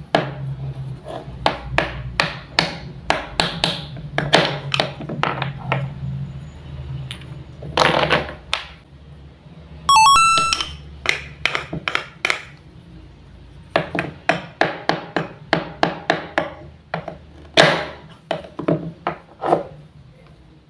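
Wooden toy fruit and vegetable pieces being cut apart and knocked together with a toy knife: a run of sharp wooden clacks and taps, with a longer rasping pull about eight seconds in and again later on. A short bright chime sounds about halfway through.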